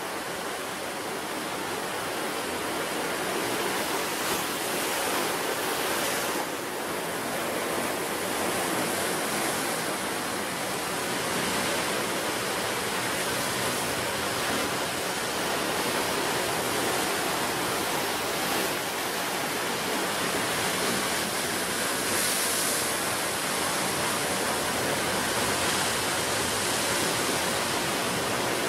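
Ocean surf breaking on the shore: a steady, dense rush of water that swells now and then with a brighter hiss of foam.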